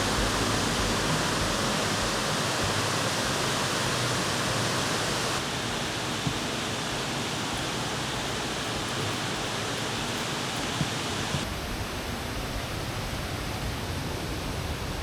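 Waterfall rushing: a steady, even roar of falling water, its tone changing abruptly twice, about five and eleven seconds in.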